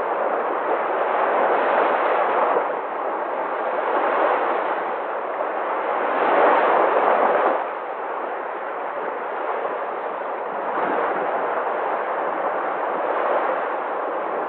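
Sea surf washing on the shore as a continuous rush, swelling and easing as waves come in, loudest about six to seven seconds in.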